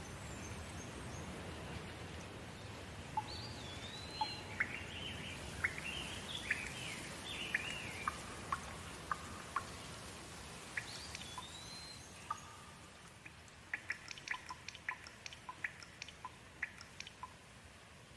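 Steady rain with a bird calling over it: groups of short rising and falling notes. Near the end comes a quick run of short, sharp ticks as the rain eases a little.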